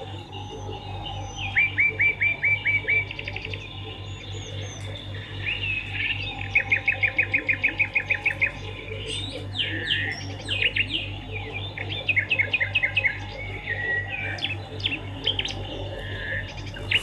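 Swiftlets twittering: rapid runs of sharp, high chirps, each run about a dozen notes, repeated again and again, over a steady low hum.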